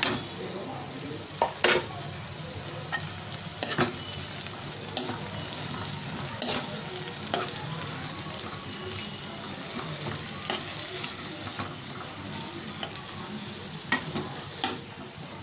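Onions, chopped tomatoes and green chillies sizzling in hot oil in a pan while a spatula stirs them, with sharp knocks and scrapes of the spatula against the pan every second or two, loudest near the start.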